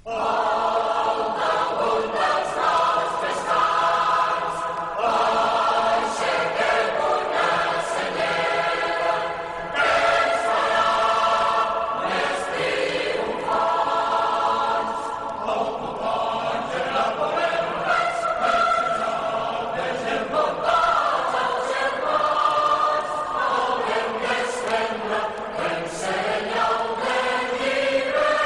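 Many voices singing together in long held notes, like a choir.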